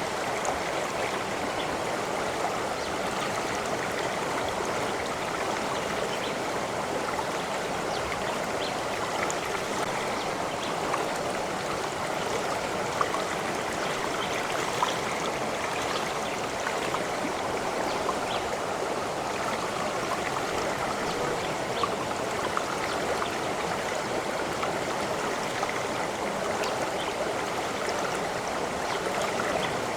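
Water running steadily over stones in a stream, a continuous babbling rush with small splashes and trickles scattered through it.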